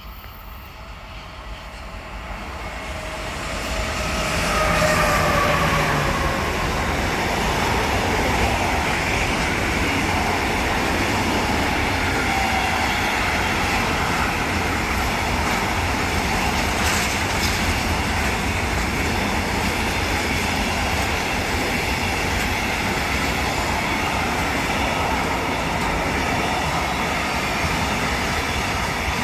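A freight train hauled by a Siemens Vectron electric locomotive passes close by. It grows louder over the first few seconds, with a faint falling whine as the locomotive goes past. Then comes the steady rumble and clatter of the wagons rolling by.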